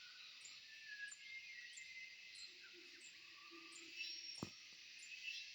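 Forest dawn chorus: a steady high buzz of insects with a high chirp repeating about every two-thirds of a second, and birds giving short whistled notes that glide up and down. A single sharp click sounds about four seconds in.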